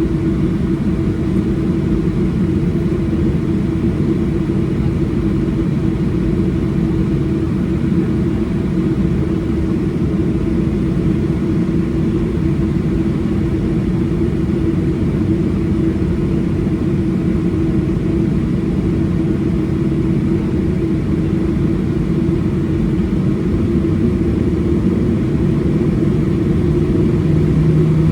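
Boeing 737-800's CFM56 jet engines heard from inside the cabin: a steady rumble with a constant hum. Near the end a second, lower tone joins in and the sound grows louder.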